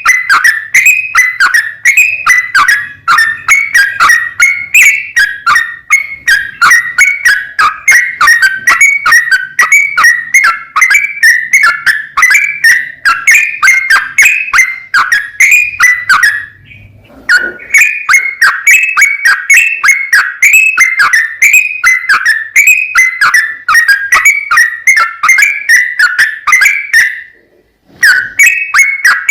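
Yellow-vented bulbul (trucuk) singing a long, rapid run of chattering notes, phrase after phrase, with two brief breaks, one a little past halfway and one near the end.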